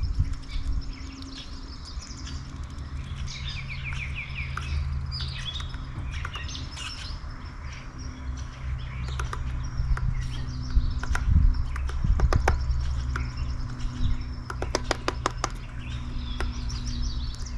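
Songbirds at a backyard feeder chirping and calling in quick overlapping notes and short trills, with scattered sharp taps and a quick cluster of them about fifteen seconds in. A steady low hum runs underneath.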